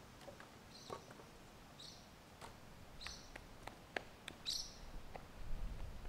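Short high bird chirps repeating about once a second, mixed with scattered sharp crackles of footsteps and twigs on dry forest litter.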